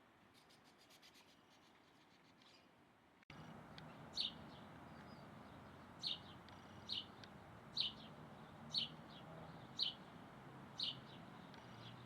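A bird giving short, sharp single calls, repeated about once a second over a steady outdoor hiss; the calls start a few seconds in, after a quiet stretch.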